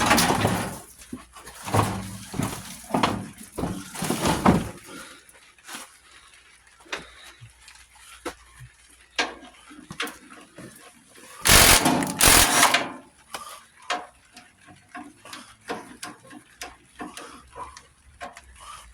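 Metal tools and tractor parts knocking and clanking as an old lawn tractor is taken apart, with dense rattling in the first few seconds and a loud noisy burst of about a second roughly eleven seconds in, then scattered lighter clicks.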